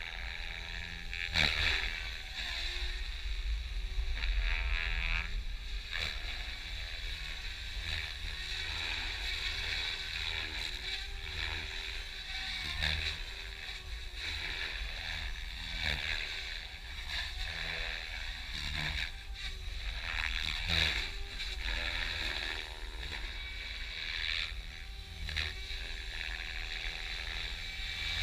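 Compass EXO 500 electric RC helicopter flying 3D manoeuvres: the rotor blades whoosh and the motor whines, the pitch swinging up and down as the blades load and unload, with louder swells as it passes. A steady low rumble lies underneath.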